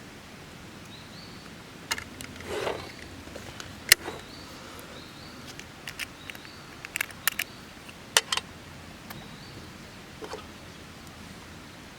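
Sharp clicks and knocks of things being handled, scattered irregularly, with a short scrape about two and a half seconds in, over a steady outdoor hiss.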